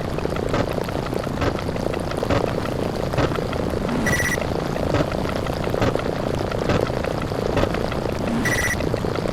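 Sound effects from a number-counting video: a continuous dense rumble of explosion sound effects overlapping in rapid succession, full of quick crackles. A short high beep sounds twice, about four seconds apart.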